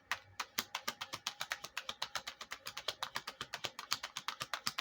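A rapid, fairly even run of light sharp clicks, about nine or ten a second, like fast tapping or typing.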